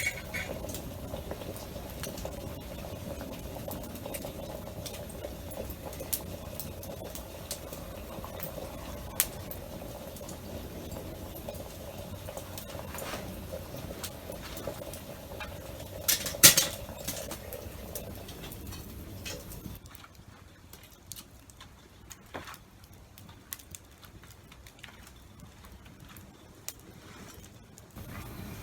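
A kettle of water heating over a campfire: a steady hiss with small crackling pops, and one sharp metallic clatter about halfway through. The hiss drops away about two-thirds of the way in, leaving scattered pops and drips.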